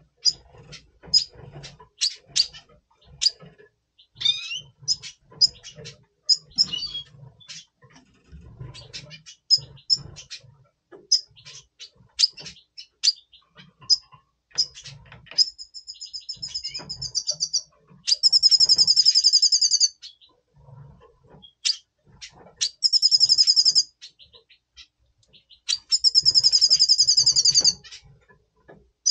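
Red siskin in breeding condition, giving short high chirps and twitters, then, from about halfway, four loud buzzy rattling trills of one to two seconds each.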